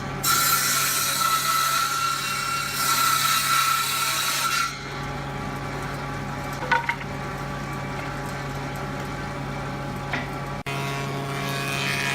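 Woodworking power tool running with a steady hum. It cuts into wood with a loud high whine for the first four and a half seconds, then runs lighter, with a click about seven seconds in.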